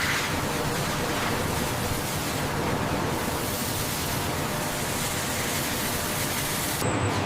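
Machine rough-cutting a metal part: a steady, even hiss, with a brief change near the end.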